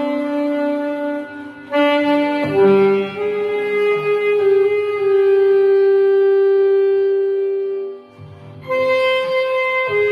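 Saxophone playing a slow melody, holding one long note for several seconds before a short breath and the next phrase, with a quieter accompaniment beneath.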